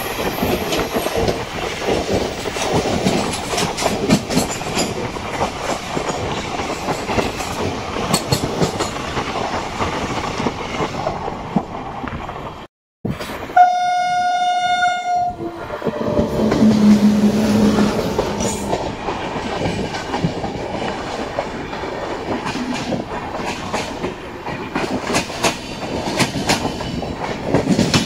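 Moving passenger train, wheels clattering over the rail joints with a steady running rattle. About halfway through, after a brief break, a train horn sounds for about two seconds, and a lower tone follows a moment later.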